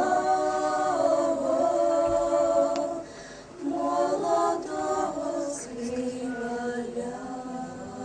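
Unaccompanied singing of long held notes with no clear words, breaking off briefly about three seconds in and then going on more quietly.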